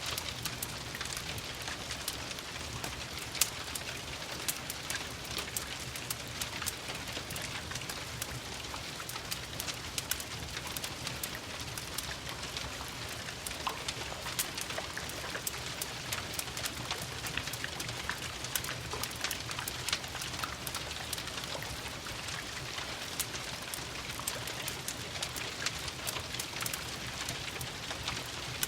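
Steady rain, with a dense scatter of sharp crackles and ticks from a wood fire over a low, even rumble.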